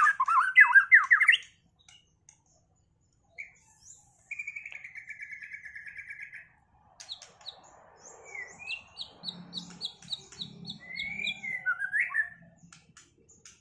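White-rumped shama (murai batu) singing in bursts. A loud, fast phrase of rising and falling whistles comes first, then a buzzy rattling trill about four seconds in, then a run of scattered whistles and chattering notes.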